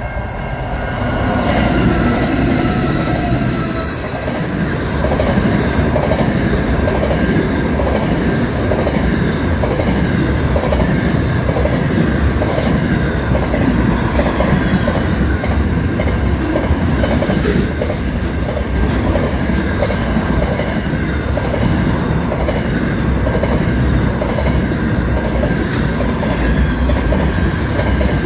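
Long freight train of container wagons passing close by: a loud, steady rumble and rattle of steel wheels on rail, with a rhythmic clickety-clack over the rail joints and a thin, steady squeal above it.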